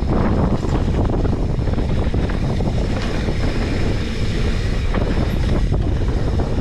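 Wind buffeting an action camera's microphone during a downhill ride: a loud, steady, rumbling rush without a break.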